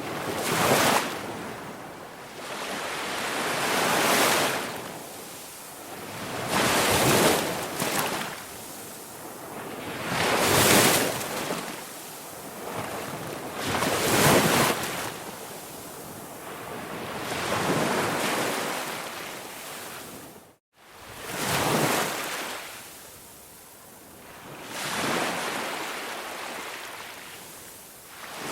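Ocean waves washing in and drawing back, about eight surges that swell and fade every three to four seconds. Near two-thirds of the way through the sound cuts out to silence for an instant and resumes.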